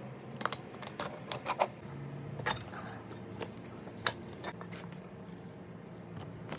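Light, sharp metallic clicks and clinks of small metal parts or tools being handled, bunched in the first half with the loudest about half a second in.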